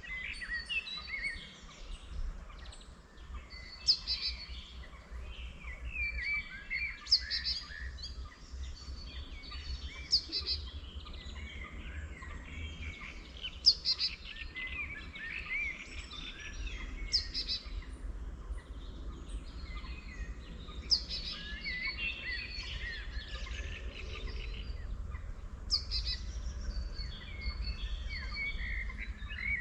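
Several wild birds singing and chirping together. One loud song phrase, starting with a sharp downward sweep, comes back every three to four seconds over the busier chorus, with a steady low rumble underneath.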